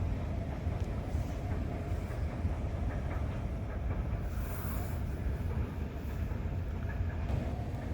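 Steady low rumble of jet airliner engines, with a brief high hiss about four to five seconds in.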